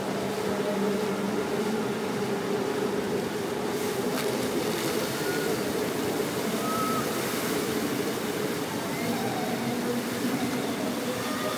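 Outdoor water fountain splashing steadily, over a constant low hum of city traffic.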